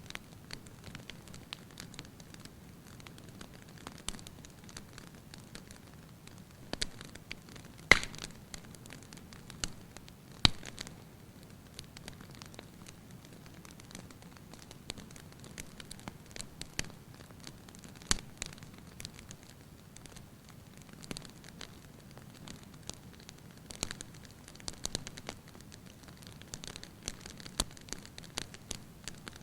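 Fire burning in a fireplace hearth: a low steady rush of flames with scattered crackles and pops, the two sharpest snaps about eight and ten and a half seconds in.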